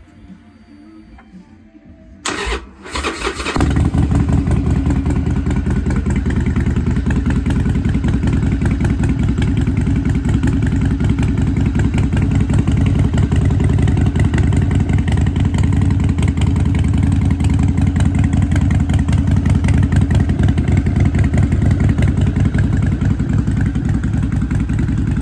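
Harley-Davidson V-twin with a freshly fitted Vance & Hines Shortshots exhaust, turned over by the starter about two seconds in and catching a second later, then idling loud and steady.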